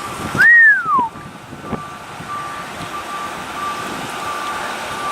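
A vehicle's backup alarm beeping at one steady pitch over street and wind noise, with one loud whistle-like tone about half a second in that rises and then falls in pitch.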